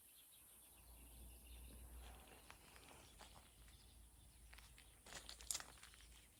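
Near silence: faint outdoor ambience with a low rumble, and a few faint clicks near the end.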